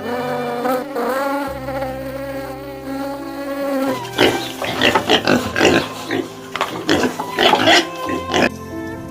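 A steady, buzzing drone for about four seconds, then a string of short, harsh squeals that stops about a second before the end.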